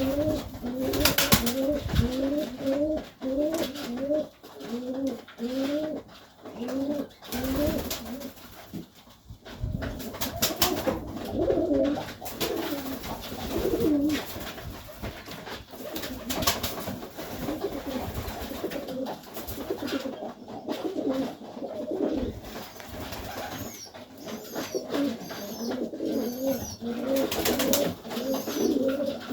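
Serbian highflyer pigeons cooing in a small loft, a quick series of short rising coos about two a second at first, then several birds cooing over one another. Sharp knocks sound now and then.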